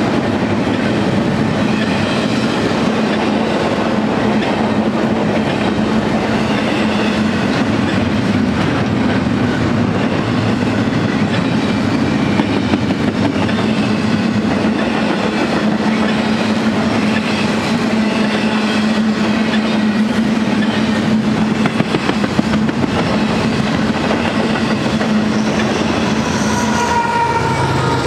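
Loaded double-stack container train rolling past on well cars: a steady rumble and clack of steel wheels on rail, with faint high wheel squeal. Near the end a mid-train distributed-power locomotive arrives, adding a low engine drone and a whine that falls in pitch as it passes.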